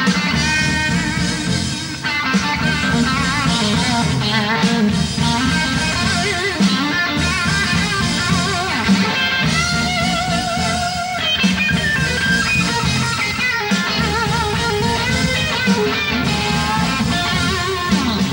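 Live band with a guitar taking a solo: bent and wavering lead notes over the band's bass and drum backing.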